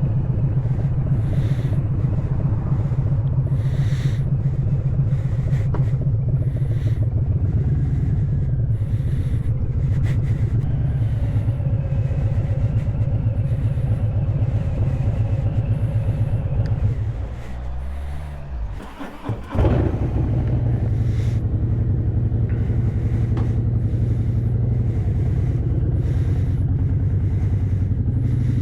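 Harley-Davidson V-twin motorcycle engine and exhaust running under way with a steady, deep note. About two-thirds of the way through, the engine note drops and goes quieter for about two seconds. A single sharp clack follows, and then the steady running note picks up again.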